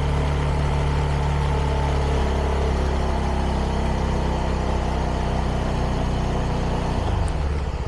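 CFMoto 300NK's single-cylinder engine running through its stock exhaust at a steady engine speed. About seven seconds in, the revs fall away and it drops to a lower, pulsing note.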